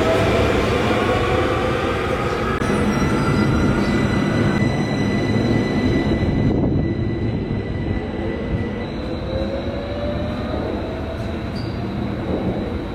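Electric tram running on rails, its motors whining in rising tones as it picks up speed, over steady wheel-and-track rumble, with a high thin squeal held for several seconds in the middle.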